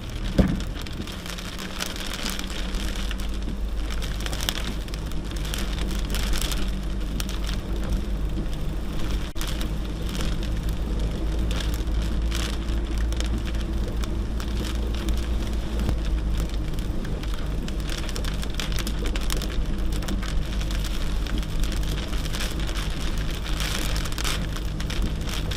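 Truck being driven, heard from inside the cab: a steady low engine drone under constant irregular crackling and ticking, with one sharp knock about half a second in.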